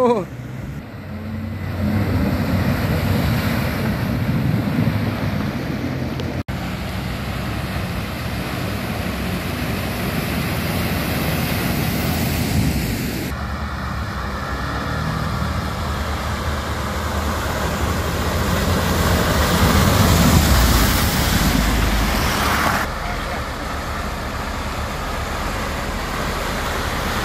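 Off-road 4x4 vehicle's engine running, with a steady rushing noise over it.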